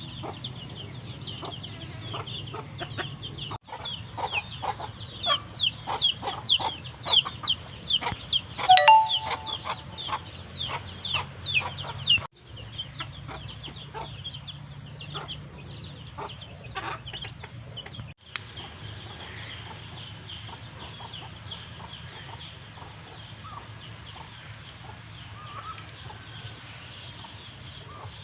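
A flock of free-range village chickens, hens with chicks: rapid high peeping chirps and clucking, busiest in the first half with a louder call a little before halfway, then thinner calling for the rest.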